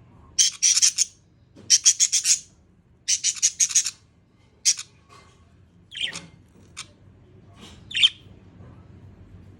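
Budgerigar chirping: four quick bursts of rapid, high chirps, then a few single calls spaced apart after about six seconds.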